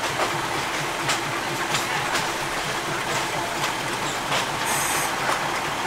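Commuter diesel railcar running along the track, a steady rumble and rush of air with irregular sharp clicks of the wheels over the rails. A brief high-pitched squeal comes about five seconds in.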